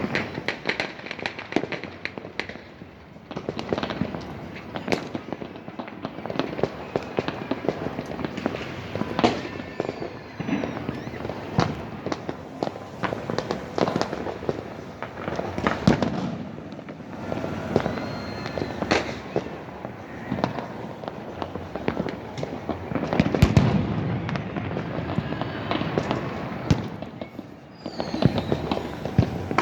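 Many fireworks and firecrackers going off together: a continuous crackle dense with sharp bangs, and a heavier, deeper burst a little over three-quarters of the way through.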